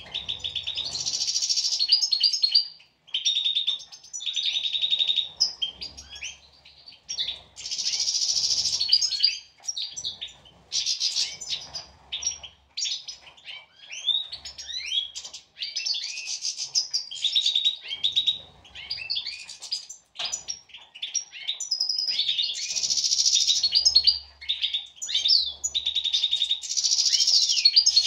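European goldfinches singing: fast twittering song of quick up-and-down notes broken by runs of rapidly repeated notes, going on almost without pause.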